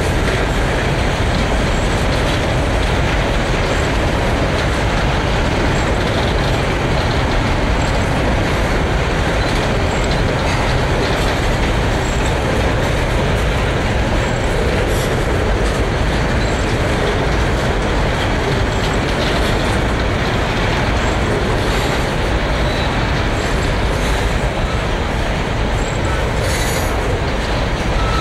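Freight train's hopper wagons rolling steadily past at close range: a continuous loud rumble of steel wheels on the rails.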